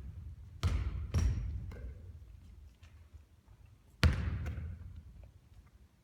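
A basketball bouncing on a court floor: two bounces about half a second apart near the start, a lighter tap, then a single loud bounce about four seconds in, each hit followed by a low echo that fades.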